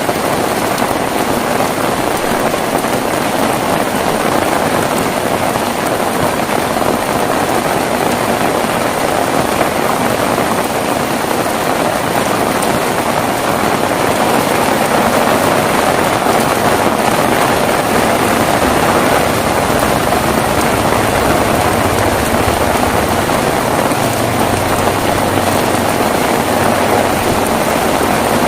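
Heavy rain falling steadily, a dense even hiss that grows slightly louder about halfway through, with a low rumble building underneath near the end.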